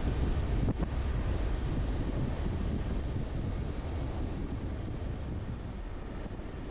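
Wind buffeting the microphone on a moving motorcycle, over a low rumble of engine and road noise, gradually getting quieter.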